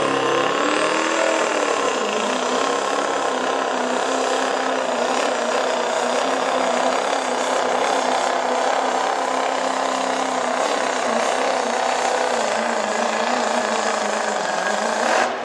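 Turbocharged diesel pickup engine running at high revs under full load while pulling a weight sled. The pitch climbs over the first couple of seconds, then holds steady, and the sound cuts off just before the end.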